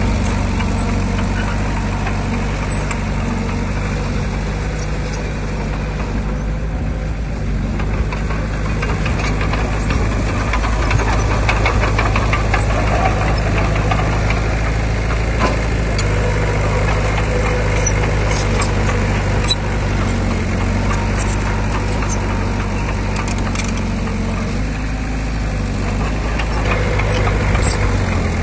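Heavy diesel earthmoving machinery running steadily, its engine note shifting a few times as the load changes, with scattered light clatters over it.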